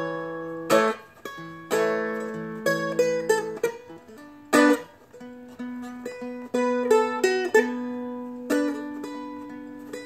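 Seagull Merlin, a four-string dulcimer-style acoustic instrument, picked in a slow solo line of single notes and double-stops that ring on and fade between strikes. The line moves through a B minor shape high on the neck.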